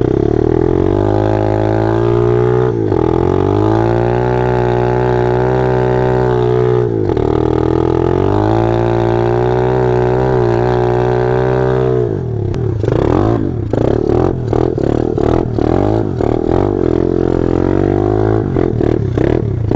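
Small single-cylinder four-stroke pit bike or minibike engine running hard at high revs. Its pitch dips briefly about 3 and 7 seconds in, then turns rough and uneven from about two-thirds of the way through.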